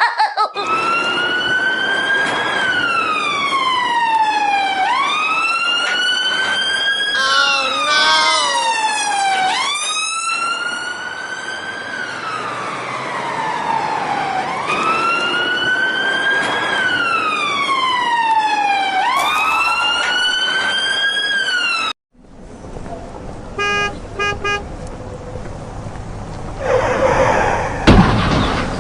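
A siren wailing in long cycles, each rising quickly in pitch and then sliding slowly down, repeating about every five seconds. It cuts off abruptly about two-thirds of the way through, followed by a few short beeps and a loud noisy burst near the end.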